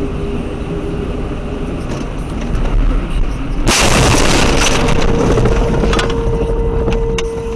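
Steady road and engine noise from a moving car, then a car crash about halfway through: a sudden loud, noisy impact that runs on for a few seconds, with a steady held tone starting soon after it.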